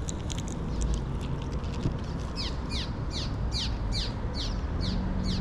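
A bird singing a series of quick, sharply down-slurred notes, about three a second, starting about two seconds in, over a steady low rumble.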